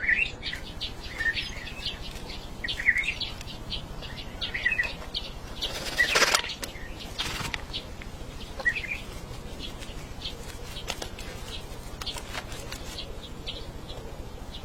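Small birds chirping on and off, with a brief rustling burst about six seconds in and a weaker one a second later. The chirps stop about nine seconds in, leaving faint scattered ticks over a steady hiss.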